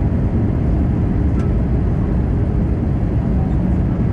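Steady cabin noise of an Airbus A320 in flight, heard from a window seat: an even, low rumble of airflow and engines.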